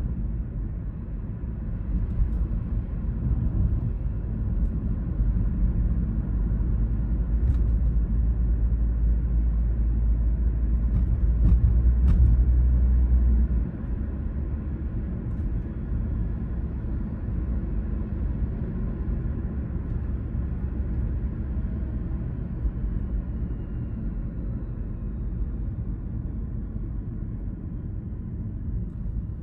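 A car driving: a steady low rumble of engine and tyre noise. It grows louder until about halfway through, then drops suddenly.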